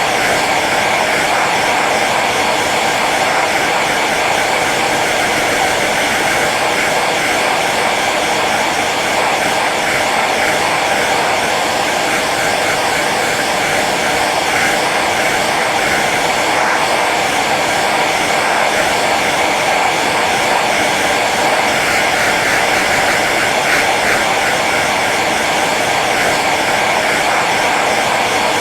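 Hair dryer running steadily on its low setting: an even blowing hiss of fan and airflow that holds the same level throughout.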